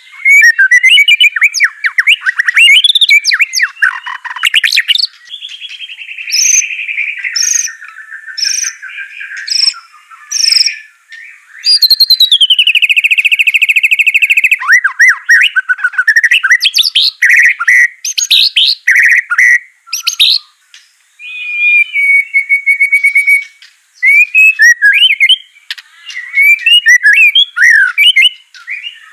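White-rumped shama singing a long, varied song of loud whistled phrases, with a fast, rattling trill held for about three seconds some twelve seconds in and a shorter one near twenty-two seconds.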